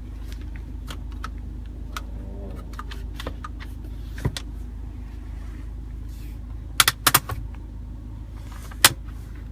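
Sharp clicks and knocks from car interior fittings being handled, with a cluster of loud clicks about seven seconds in and another near the end, over a low steady hum.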